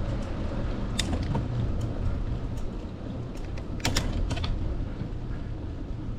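Bicycle in motion: a steady low rumble of wind and rolling, with sharp clicks and rattles from the bike, once about a second in and as a quick cluster about four seconds in.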